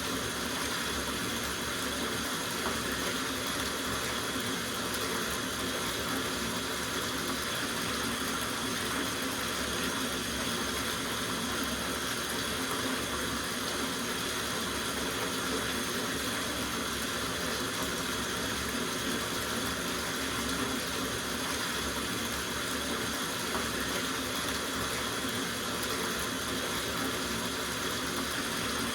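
Tap water running steadily into a soaking bathtub, an even rushing splash with no change over the whole stretch.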